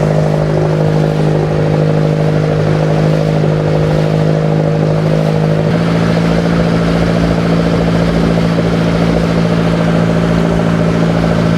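Motorized bangka's engine running steadily, its pitch stepping up slightly about halfway through as it speeds up a little.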